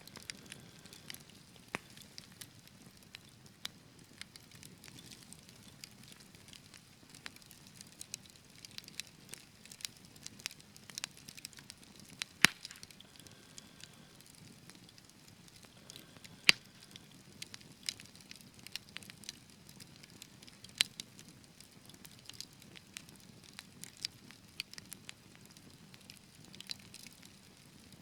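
Wood fire crackling in a fireplace: a soft steady hiss with scattered sharp crackles and a few louder pops.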